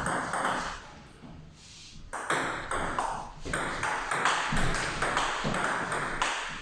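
Table tennis rally: the ball clicks off rubber-faced bats and bounces on the table in a quick, regular run of sharp pings. It starts about two seconds in, after a brief lull.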